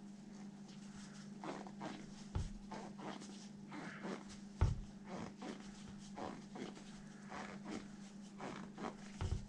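Hands working a soft rubber paddle tire and its foam insert on a 1/5-scale RC wheel: many short rubbing and squeaking strokes, with a few soft knocks, the loudest about two and a half seconds in and near the halfway mark. A low steady hum runs underneath.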